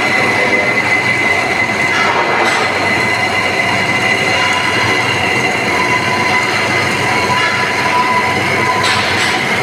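Hydraulic band saw cutting metal pipe: a steady loud grinding noise with a high ringing tone held throughout and a lower tone joining about six seconds in.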